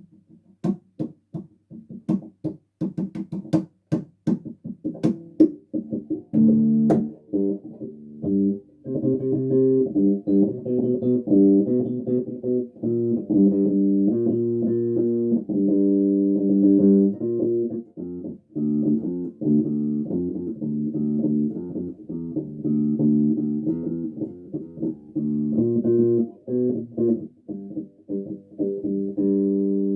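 Electric bass guitar played solo. It opens with about six seconds of short, sharp plucked notes, then moves to held notes and chords that ring together.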